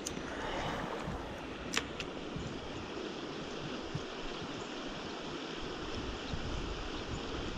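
Steady rush of a creek's flowing water over its riffles and pocket water, with two short sharp clicks, one right at the start and one a little under two seconds in.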